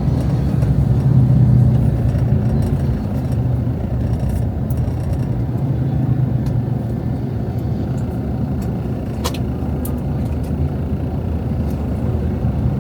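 Steady low rumble of a motor vehicle's engine and road noise, a little louder about a second in, with one brief click about nine seconds in.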